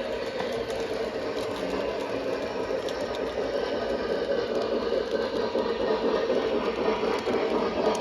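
O gauge model train running on the track: a steady motor whir with wheels rolling on the rails, slowly getting louder.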